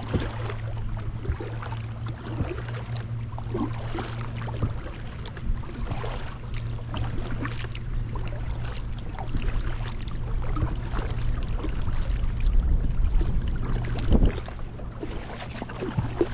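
Kayak paddle strokes: water splashing and dripping off the blades in irregular short bursts, over a steady low hum.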